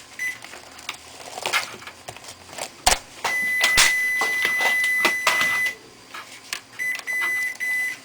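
Small electric screwdriver driving a screw into the laptop's case: a steady high-pitched whine in two runs, one of about two and a half seconds and a shorter one near the end, with clicks and knocks of the bit and plastic in between.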